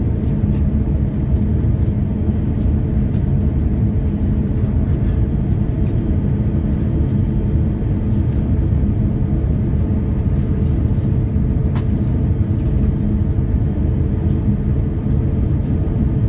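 Airliner taking off or climbing: a loud, steady, low rumble of jet engines and airflow, with a few faint clicks and rattles over it.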